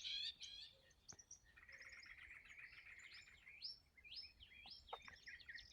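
Faint morning chorus of several wild birds chirping and singing, with short upward-sweeping notes and a fast run of repeated chirps.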